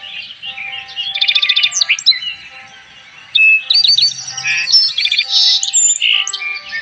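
Birds chirping and trilling: many quick high calls overlapping, with a fast run of repeated notes a little after a second in and another busy burst around four seconds in.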